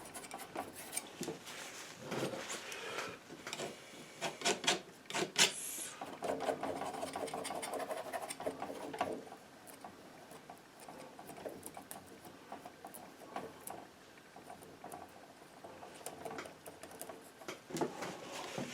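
Palette knife working oil paint on a canvas: irregular scrapes, small taps and dabs.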